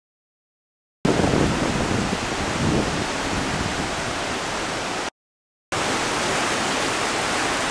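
Flood-swollen creek rushing: a steady, even wash of water noise. It starts suddenly about a second in, cuts out for half a second about five seconds in, and comes back unchanged.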